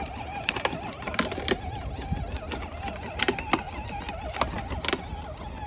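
The electric drive motors of a ride-on tractor whining at a steady, slightly wavering pitch as it drives, with scattered clicks and knocks from the ride.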